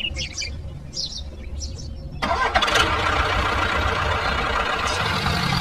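A small motor starts up suddenly about two seconds in and keeps running with a steady mechanical hum. Before it there is a low rumble with a few high chirps.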